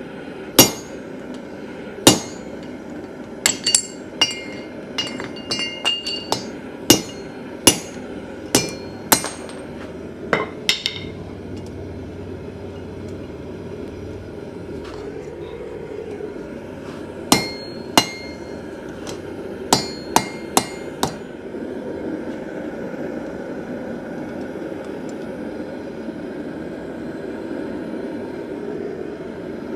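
Hand hammer striking steel on an anvil in irregular blows, each with a short metallic ring: about sixteen strikes over the first eleven seconds, then about six more between roughly 17 and 21 seconds. A steady low rushing noise runs underneath.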